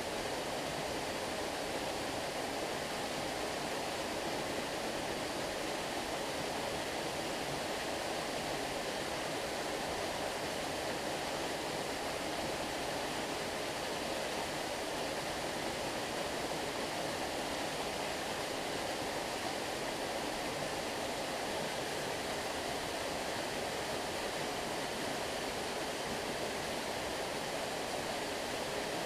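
Stream water flowing steadily: an even, unchanging wash of running water with no separate splashes or other events.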